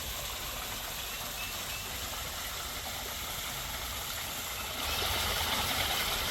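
Golf cart driving along a trail: a steady low rumble under an even hiss, the hiss getting louder about five seconds in.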